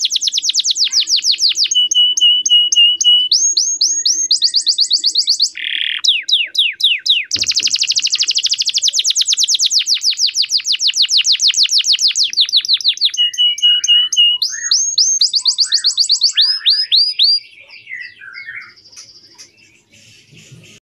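Male domestic canary singing a long song: fast trills of rapidly repeated sweeping notes, broken by a steady buzzy trill and short runs of rising notes. Near the end the song thins to a few softer, scattered notes.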